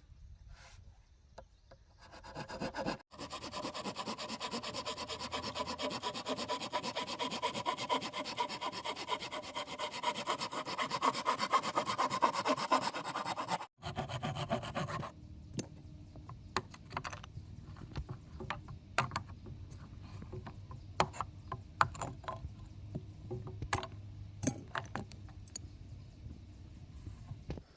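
Bamboo being cut with a hand saw in a fast, steady rasping run that stops abruptly about fourteen seconds in. Scattered light knocks and taps on wood follow.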